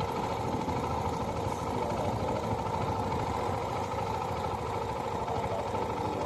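Motorcycle engine running steadily, a constant mechanical drone.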